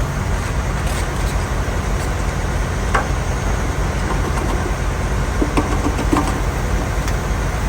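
Semi truck's diesel engine idling steadily, with a few faint clicks over the rumble.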